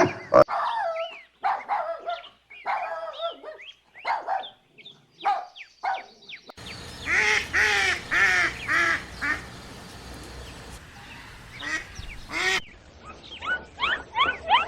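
Animal calls from several short recordings cut together. First comes a mix of varied calls. About halfway through there is a run of four or five evenly spaced, similar calls. Rapid, high, rising squeaks of a different animal start near the end.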